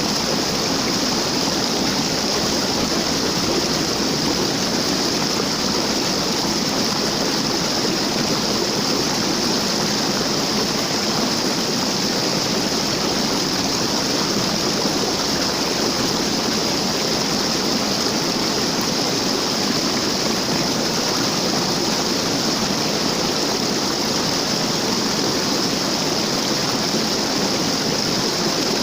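Waterfall: water falling and rushing steadily, an unbroken hiss with no change.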